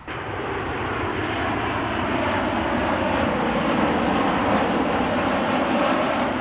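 Boeing 737-800 airliner's CFM56 jet engines passing close, a loud, steady rush of engine noise that starts abruptly.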